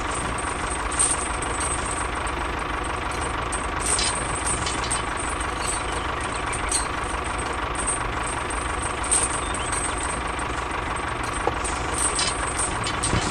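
A tractor engine idling steadily, with a few faint clicks over it.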